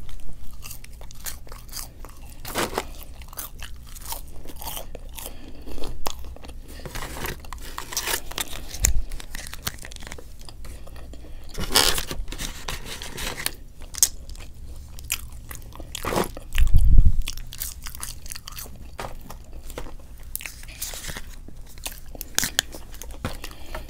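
A person biting and chewing food close to the microphone, with crisp crunches and wet mouth clicks, as in mukbang eating. There is a louder dull thump about 17 seconds in.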